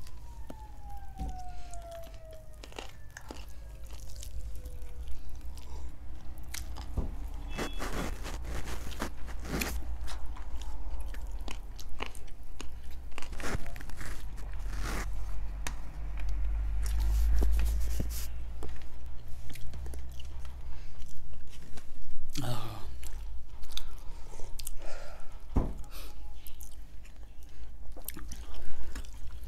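Close-miked eating: two people biting and chewing whole roasted chargha chicken, with irregular wet clicks and crunches as meat is torn from the birds by hand.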